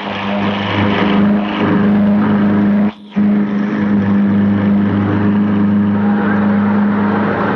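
An engine running steadily with a constant droning hum. It cuts out briefly about three seconds in.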